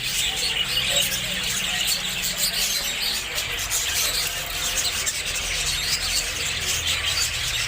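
A flock of Australian parrots chattering and squealing, many short calls overlapping without a break.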